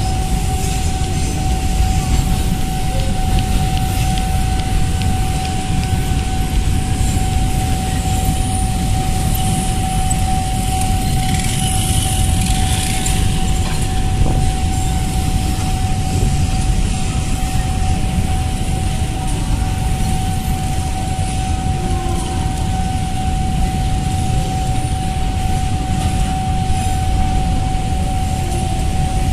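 Container freight train rolling past, a steady rumble of wagon wheels on the rails, with a steady high tone over it.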